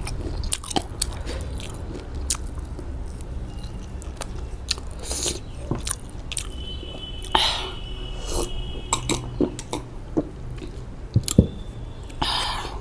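A person eating close to the microphone: biting and chewing with crunches and wet mouth clicks, a few louder noisy bursts among them.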